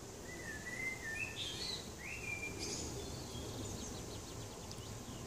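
A songbird singing a few short warbling phrases in the first three seconds or so, over a steady low background rumble.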